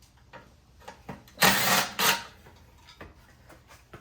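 A cordless power driver spinning out the bolt that holds the oil filler tube on: a burst of about half a second about one and a half seconds in, then a shorter burst just after.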